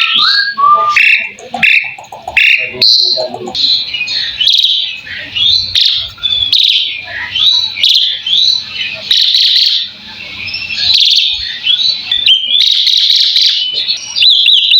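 Asian pied starling (jalak suren) singing a long, varied run of rapid chirps, whistles and short rising notes, without pause.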